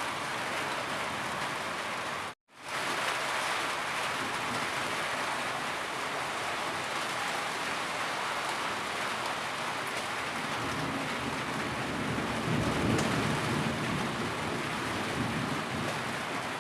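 Steady heavy rain, a dense, even hiss of downpour. It cuts to silence for a split second about two seconds in, and its low end swells a little past the middle.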